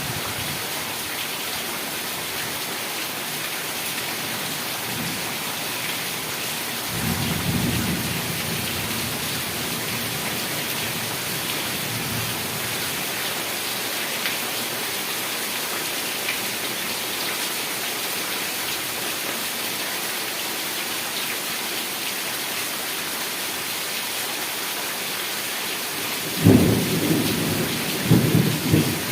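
Heavy rain falling steadily. A low roll of thunder swells about seven seconds in, and a louder clap of thunder breaks near the end and rumbles on.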